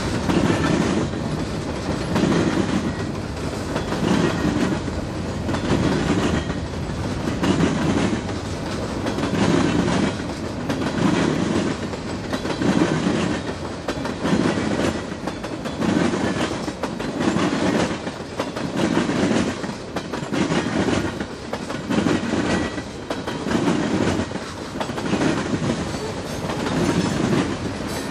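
Freight train cars rolling past at a steady low speed, their wheels clacking over rail joints in an even rhythm about once every second and a bit, over a continuous rumble.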